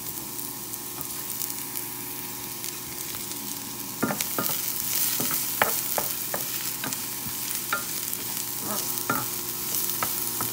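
Sliced red onion and minced garlic sizzling in hot oil in a nonstick pan. About four seconds in, a wooden spatula starts stirring them, with short clicks and scrapes against the pan, and the sizzle gets louder.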